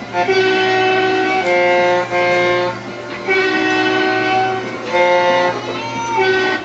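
A simple melody of held, evenly pitched notes playing from a toy road-roller ride's speaker.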